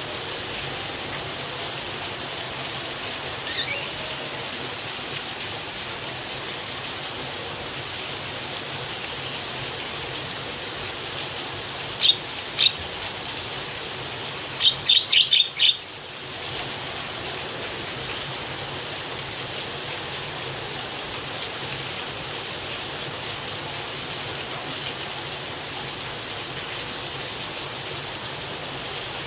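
Steady rain hiss with the short, sharp calls of a Javan myna: two about twelve seconds in, then a quick run of about five a few seconds later.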